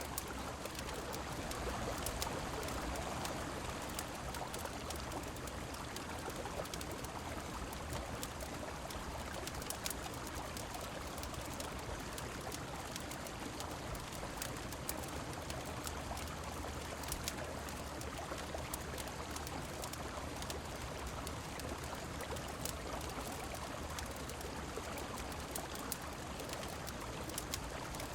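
Steady rush of a river mixed with falling rain, an even wash of water noise, dotted throughout with small sharp clicks and crackles.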